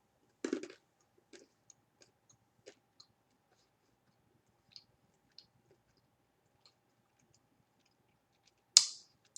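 Someone quietly chewing sugar-coated blueberry-flavoured almonds: faint, scattered crunches and mouth clicks, with one short, sharp, hissy noise near the end.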